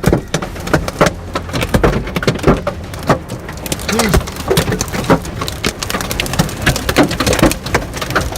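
Hailstones pelting hard surfaces in a storm: a dense, irregular clatter of sharp impacts over the steady hiss of falling rain.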